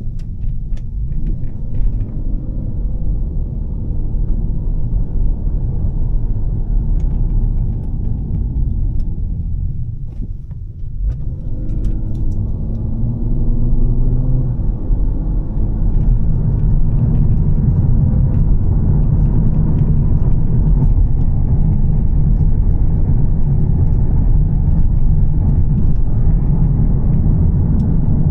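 Volvo S60 T6's turbocharged straight-six with a Heico exhaust, driving: a steady low rumble with road noise, with rising engine notes as it pulls. The sound eases off about ten seconds in, then builds and stays louder.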